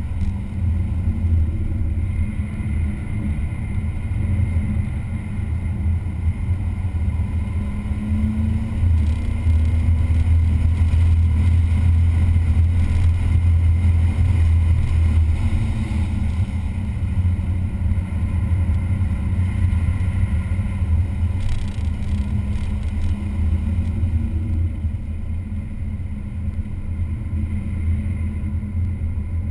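Car engine running hard through a track-day lap, its pitch and loudness rising and falling with throttle and gear changes, loudest for several seconds in the middle.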